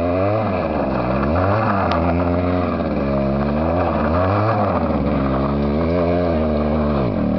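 1979 Yamaha 125 road bike engine revving hard and dropping back over and over while the bike spins donuts on loose gravel. The pitch rises and falls several times, with a deep drop just before the end.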